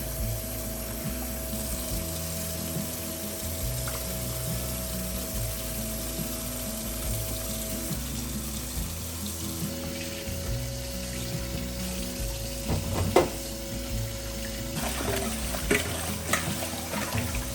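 Water running steadily from a tap into a sink, with soft background music and a sharp clatter about three-quarters of the way through.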